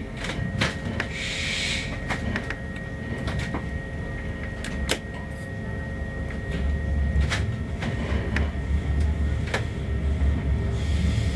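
Train running along the track heard from inside the carriage: a low rumble that grows louder about halfway through, with scattered clicks and knocks and a short hiss about a second in.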